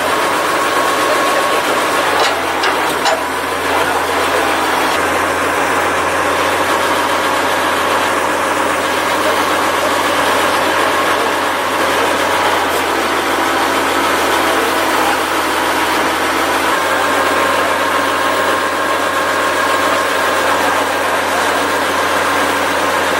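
Heavy army truck engine running steadily, its pitch shifting slightly a couple of times.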